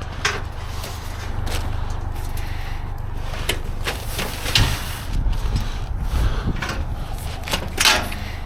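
Debris being shifted by hand in a dumpster: irregular knocks, scrapes and rustles, the loudest about halfway through and again near the end, over a steady low rumble.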